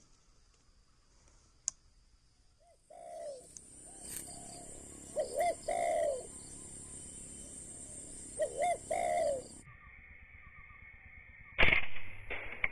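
Spotted dove cooing twice, each call two short coos followed by a longer one, over a steady high hiss. Near the end comes a single sharp, loud crack.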